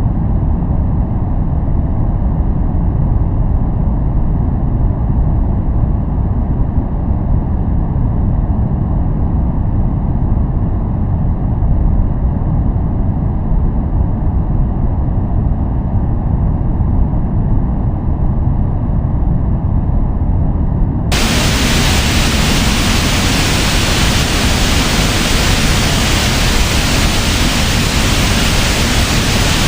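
Steady synthetic noise played as a focusing sound: a deep, muffled noise for most of the stretch, switching abruptly about two-thirds of the way in to bright, full-range white-noise hiss.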